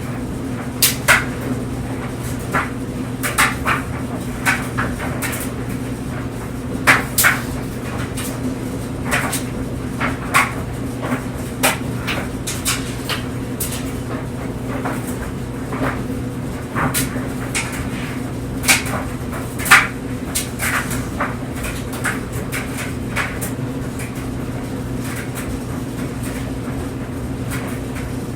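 Clothes dryer running: a steady low motor-and-drum hum with clothes tumbling inside, knocking irregularly against the drum about once or twice a second, a few knocks louder than the rest.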